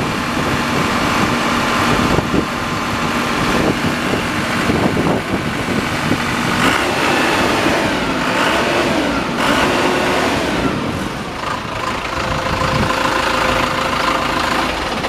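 Crown CTC 750 crawler tractor engine running, its speed rising and falling in the middle, then settling back to a steady run.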